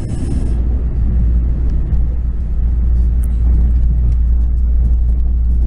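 Steady low rumble of a passenger train running along the line, heard from inside the carriage, with a brief hiss at the start.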